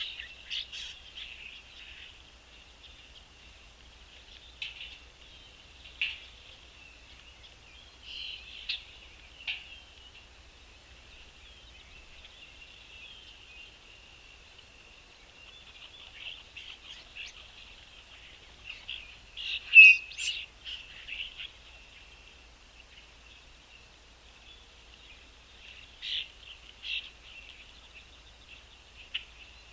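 Songbirds chirping and twittering steadily, with louder single chirps now and then, the loudest about two-thirds of the way through.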